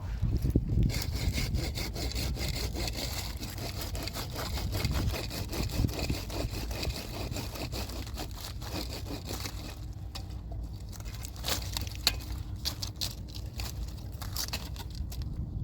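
Wood being sawn by hand, a dense run of rasping strokes, thinning to a few sharp cracks in the last few seconds.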